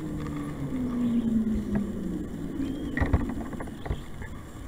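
Motorboat engine passing on the river, its low tone falling in pitch as it goes by. A few sharp knocks of rod and gear handling in the kayak come about three and four seconds in.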